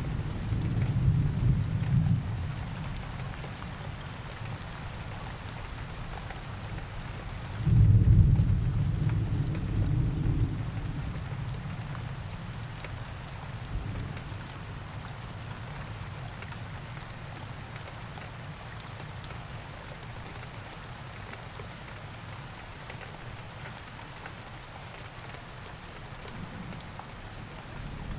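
Steady rain ambience with low rolls of thunder: a rumble in the first couple of seconds, and a louder one that starts suddenly about eight seconds in and dies away over the next few seconds.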